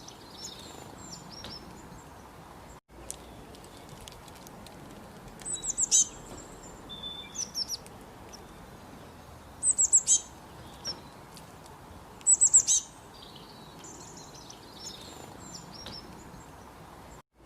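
Small birds chirping: quick runs of three or four sharp, high-pitched chirps every few seconds, with softer calls between them, over a steady background hiss.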